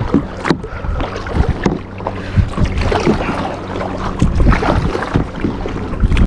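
Kayak paddling: paddle strokes splashing and water sloshing against the hull, with occasional knocks of the paddle, over a steady low hum.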